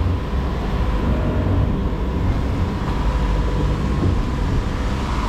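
Strong wind buffeting the microphone aboard a sailing catamaran in a hard southerly blow, a loud, steady rumble. A faint, steady high whine runs through it.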